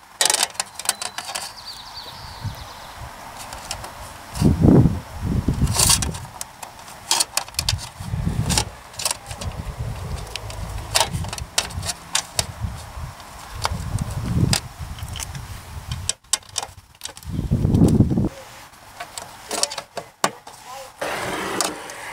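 License plate being fastened to a tow-hook plate frame by hand: irregular sharp clicks and clinks of screws, tool and metal plate, with several dull low thuds from handling.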